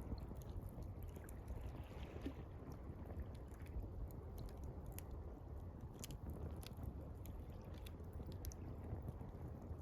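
Wood campfire crackling, with many short irregular snaps and pops, over a steady low wash of gently lapping water.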